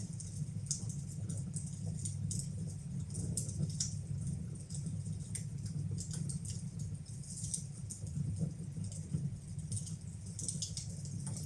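Fireplace fire burning, with irregular crackles and small pops over a steady low rumble.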